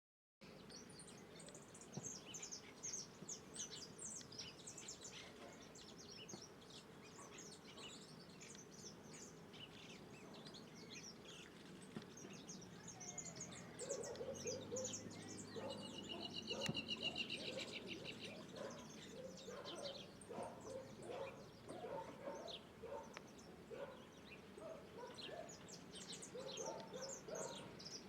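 A chorus of several birds chirping and calling, with many quick high notes throughout. About halfway in come lower, fuller calls, and a short buzzy rattling trill stands out a little later.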